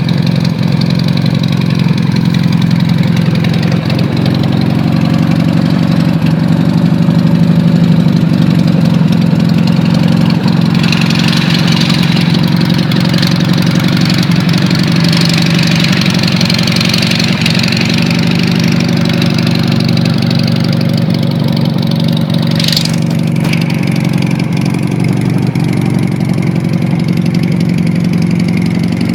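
Retro motorcycle engine idling steadily. A hissing noise joins in about a third of the way through and fades out about two-thirds of the way in, with a brief sharp sound near its end.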